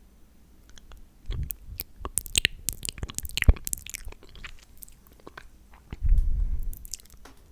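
Close-miked wet mouth sounds, a quick run of lip smacks and tongue clicks as in fake-eating lip gloss, with two low muffled bumps against the microphone about a second in and around six seconds.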